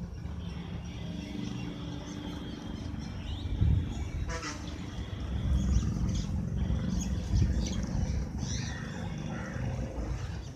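Small birds chirping and calling in short notes over a steady low rumble.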